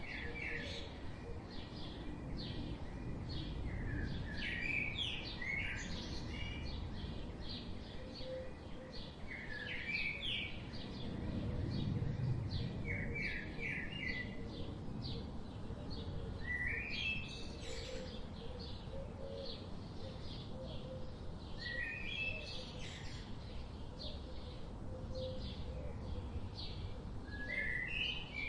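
Birds calling outdoors: short rising chirp phrases every few seconds over a steady, quick high ticking, with a low rumble of background noise underneath.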